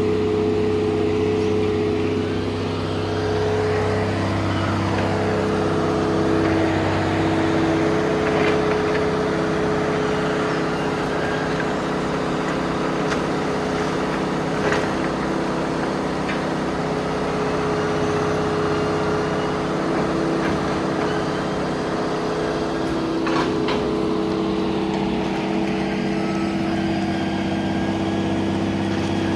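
An engine running steadily, a continuous low hum with a few faint clicks.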